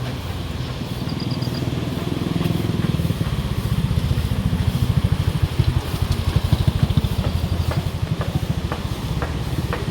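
A motorcycle engine running close by, with a fast, even pulse. It grows louder through the middle and eases off near the end.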